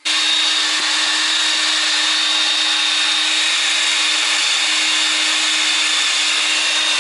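Electric drill running steadily at full speed, drilling out a bolt snapped off inside a car's catalytic converter flange.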